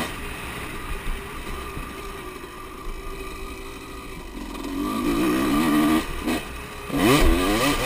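Motocross motorcycle engines running. One grows louder about five seconds in, and near the end an engine revs up sharply, rising steeply in pitch.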